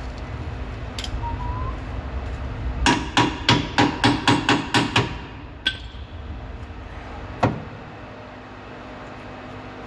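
Hand hammer striking metal during lower control arm installation: a quick run of about nine blows, roughly four a second, then two single harder strikes, the first with a short metallic ring.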